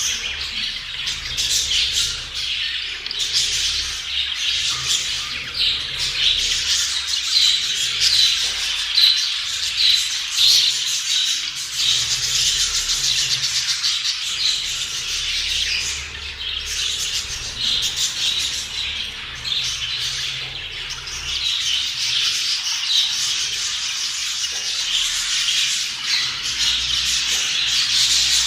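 A flock of budgerigars chattering without pause, many chirps, warbles and squawks overlapping.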